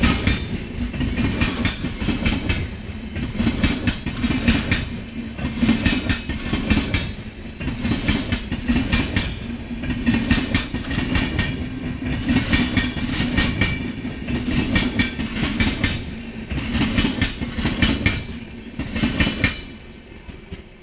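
Express train passing at speed close by, its wheels clattering over the rail joints in a repeating clickety-clack about every second and a half over a steady low rumble. The sound drops away near the end as the last coach goes by.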